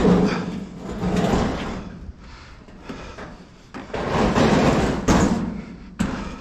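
Knocks, clunks and scraping from the sheet-metal cabinet of a scrap clothes dryer being handled and shifted, with sharp knocks at the start and about five and six seconds in.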